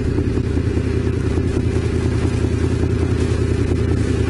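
Honda VFR750's V4 engine running steadily while ridden, a continuous low rumble picked up by a helmet camera.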